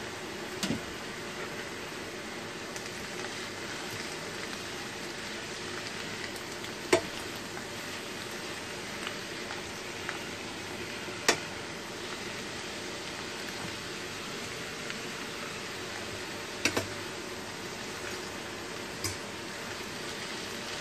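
Pre-cooked cabbage with sliced sausages and mushrooms sizzling steadily in a frying pan as it is reheated and stirred. Occasional sharp clicks come from the utensil striking the pan.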